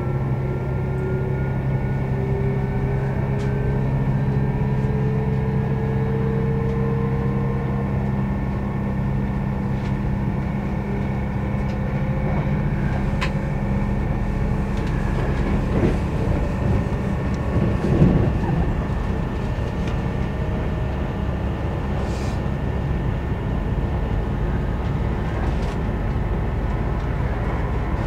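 Interior running noise of an electric commuter train moving at speed: a steady rumble of wheels on rail, with a whine rising slowly in pitch over the first several seconds as the train accelerates. A few light clicks, and one louder knock about eighteen seconds in.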